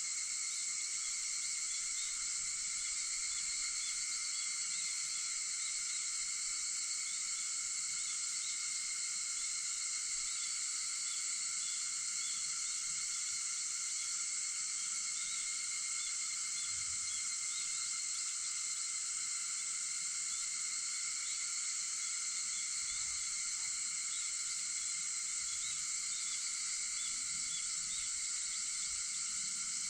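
Chorus of cicadas droning steadily and unbroken at a high pitch, with faint small chirps over it.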